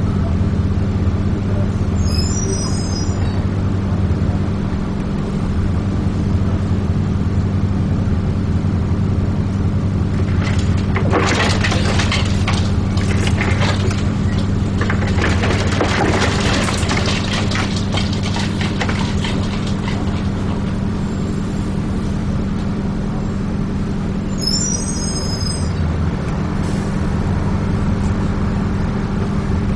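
Transbus ALX400 Dennis Trident 2 double-decker bus heard from inside, its diesel engine running with a steady low drone. For several seconds in the middle there is loud rattling and clattering. Short high electronic beeps sound twice, near the start and again past the middle.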